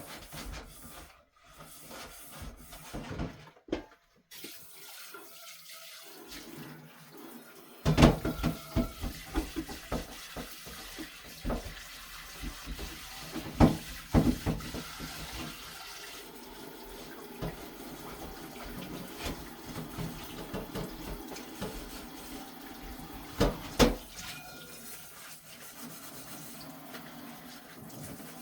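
Kitchen tap running into the sink during dishwashing, with dishes clattering and knocking. The water starts a few seconds in, after some quieter rubbing and handling.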